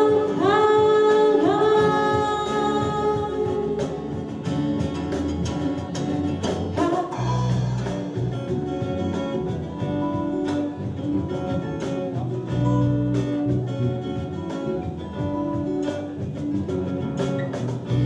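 Live band playing an instrumental passage between sung lines: guitars over a bass line and drums, with held notes that slide into pitch during the first few seconds.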